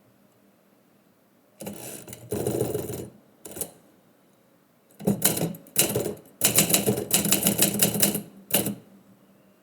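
Typewriter keys struck in quick runs: a burst of strikes about one and a half seconds in, a brief one after it, then a longer, denser run of rapid key strikes from about five seconds in until near the end.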